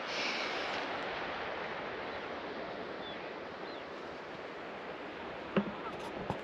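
Steady rush of sea surf on a beach, with one short knock about five and a half seconds in.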